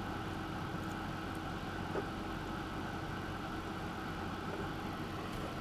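Steady background hum and hiss with a faint constant tone, and no distinct events.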